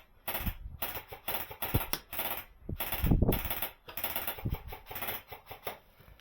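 Airsoft gunfire: clusters of rapid, sharp clicks in a clattering rattle, with a low rumble near the middle.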